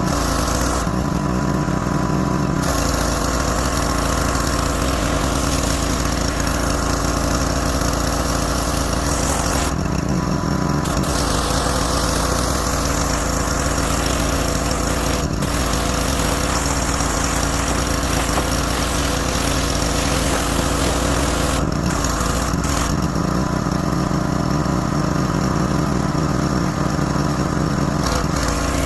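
Small gasoline engine of a pressure washer running steadily, with a hiss of spray that stops briefly three times.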